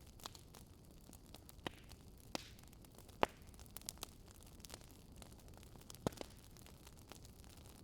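Wood fire crackling softly: scattered sharp pops, the loudest a little after three seconds and again near six seconds, over a faint steady hiss.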